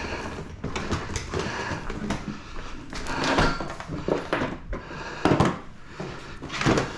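An old pull-behind canister vacuum cleaner being handled: irregular knocks, clunks and scraping of its hard plastic and metal parts. The loudest knocks come about five seconds in and again near the end.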